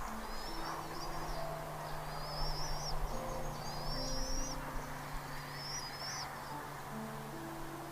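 A bird giving about five short, high, thin calls that rise and waver, spaced out over several seconds, over soft background music with low sustained notes.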